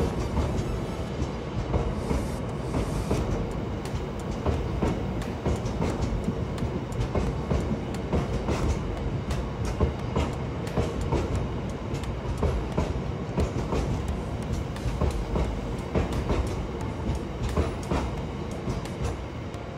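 A long train of covered bogie hopper wagons rolling past: a steady low rumble with the wheels clicking and knocking on the track at irregular intervals.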